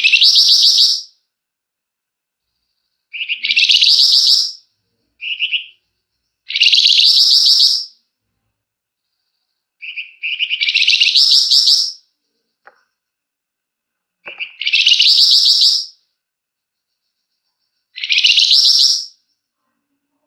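Flamboyan songbird singing: six loud, high-pitched buzzy trilled phrases of about one to two seconds each, repeated every few seconds with silent gaps, some opening with a short separate chirp.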